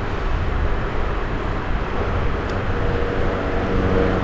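Steady wind and road rumble picked up by a chest-mounted action camera while riding a bicycle. About halfway through, a steady motor-vehicle hum joins in and grows a little louder.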